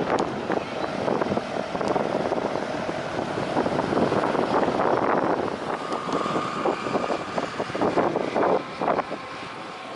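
Wind buffeting the microphone over steady jet engine noise, with a faint steady whine that rises in pitch about halfway through.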